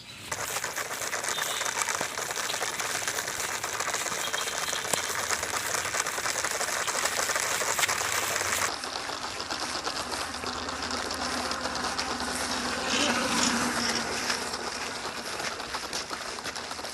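Small electric toy motor buzzing steadily, with a noisy rushing haze.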